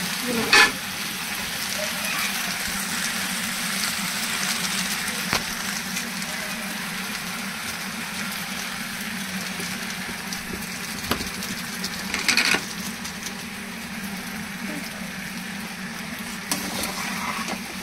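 Macaroni frying in a pan on a gas stove: a steady sizzling hiss, with a few sharp clicks of a metal spatula against the pan, the loudest about half a second in and about twelve seconds in.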